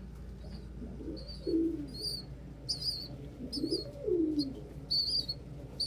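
Domestic pigeons: a squeaker (young pigeon) peeping in short, high, repeated cheeps, while an adult pigeon coos twice, each coo low and rising then falling.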